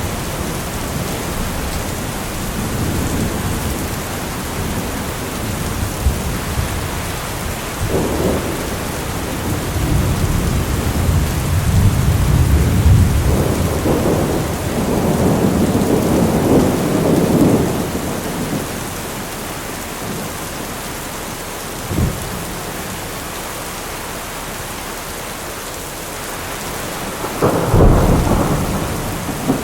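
Steady heavy rain with rolling thunder: a long low rumble builds and fades over several seconds in the middle, and a sharper crack of thunder comes near the end, with a few short low knocks of thunder between.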